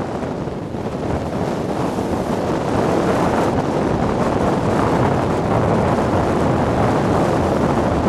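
Wind buffeting the microphone: a steady, rough rush, a little louder after the first couple of seconds.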